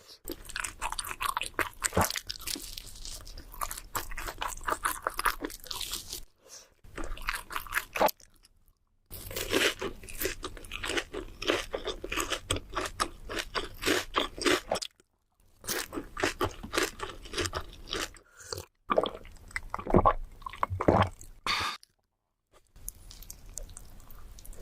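Close-miked eating: crunchy bites and wet chewing of fast food, a dense run of crackles. Several short silent gaps break it where separate clips are spliced together.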